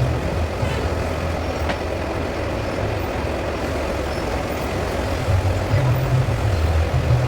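A heavy engine running with a steady low rumble. The rumble eases about halfway through and grows stronger again near the end.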